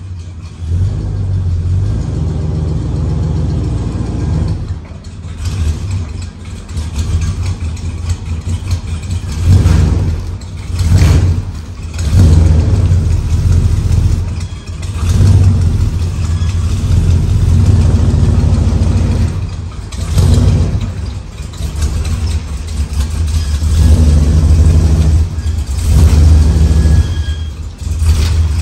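1973 Chevrolet El Camino engine running while the car is manoeuvred into place, its loudness rising and falling in repeated surges as it is revved and eased.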